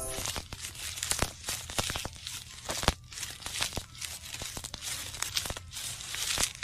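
Plastic bag crinkling and crackling, a dense run of irregular crackles and small snaps.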